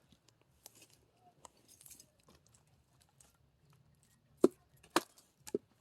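Split firewood being handled between axe strikes: light crackling and rustling of wood, then three sharp wooden knocks near the end.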